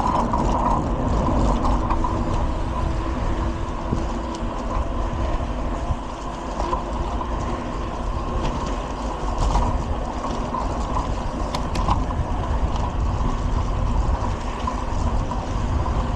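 Steady rushing road and wind noise picked up by a camera riding on a moving bicycle, with a few light rattling ticks, most around the middle.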